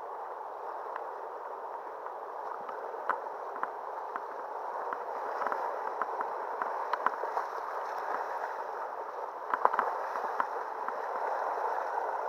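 River water rushing and gurgling around a kayak, a steady wash of noise with scattered sharp ticks, the loudest cluster about ten seconds in.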